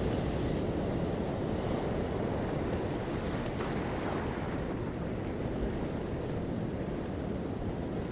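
Ocean surf washing onto a shore: a steady rush of breaking waves, heaviest in the low range, easing slightly near the end.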